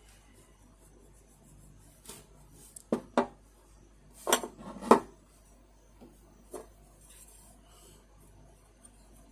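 Tools and fan parts being handled and set down on a work table: about six sharp knocks and clinks, the loudest a pair near the middle, with faint rubbing between.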